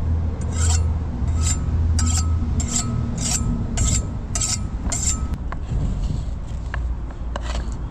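A kitchen knife making a run of about eight brisk scraping strokes, roughly one every two-thirds of a second, each with a faint metallic ring, followed by a few lighter clicks. A low traffic rumble sits underneath for the first few seconds.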